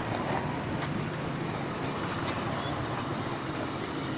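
Engine of the vehicle being ridden uphill, running steadily, with road and wind noise. A couple of brief clicks about one and two seconds in.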